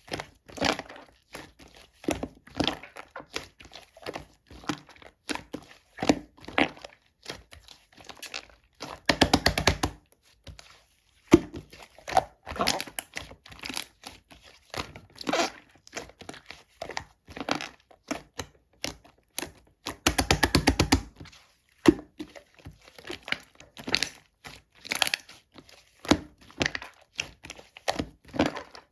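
Pink two-layer slime being squished and pressed by hand, making irregular sticky pops and crackles. Twice, about nine and twenty seconds in, comes a second-long run of rapid popping.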